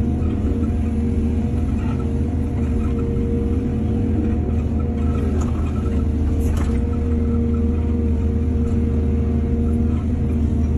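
Excavator's diesel engine running steadily, a constant low drone, with one brief clank about six and a half seconds in.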